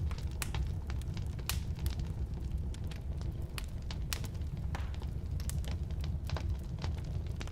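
Firewood burning in a fireplace or wood stove: a steady low rumble of flame with sharp, irregular crackles and pops from the wood.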